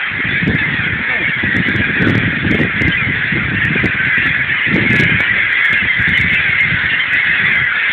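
A large flock of seagulls calling at once: a dense, continuous chorus of overlapping cries.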